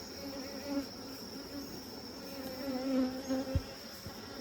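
Honey bees buzzing around an opened hive, a wavering drone that rises and falls as they fly past; the bees are agitated and defensive, worked up by the smoke. A single soft thump about three and a half seconds in.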